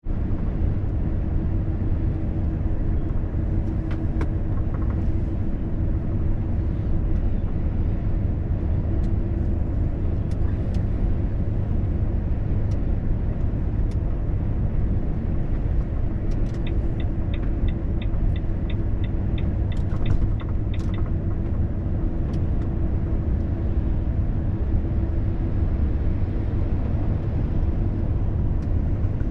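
Volvo FH truck driving at road speed: a steady low rumble of engine and road noise with a steady hum. A regular ticking, about three ticks a second, runs for some five seconds past the middle and starts again near the end.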